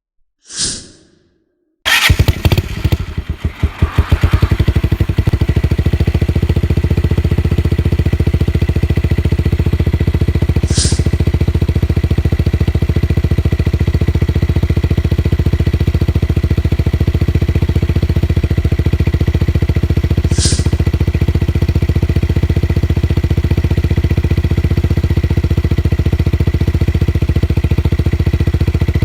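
125 cc motorcycle engine breathing through a dual open sport exhaust with the dB killer removed: it starts about two seconds in, is revved unevenly a few times, then settles into a steady idle with an even, fast exhaust pulse.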